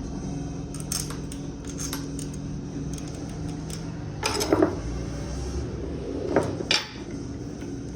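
Metal parts clanking and clattering against each other, with two louder clanks about halfway through and near six and a half seconds, over a steady machinery hum.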